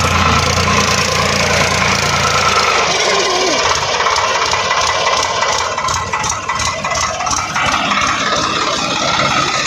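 Swaraj 744 XT tractor's diesel engine running hard under load. A steady low drone for the first three seconds turns into uneven rumbling, with a few sharp knocks about six to seven seconds in.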